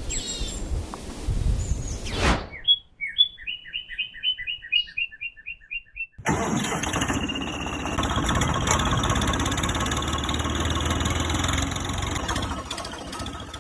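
A rising whoosh, then a quick run of short chirps about three a second, then an engine starting up and running steadily from about six seconds in.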